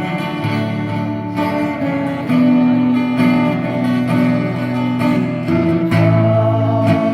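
Acoustic guitar strumming chords, with fresh strokes about every second or so.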